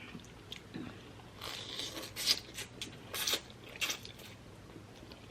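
Noodle-eating mouth sounds: about four short slurps and chewing noises, with no talk between them.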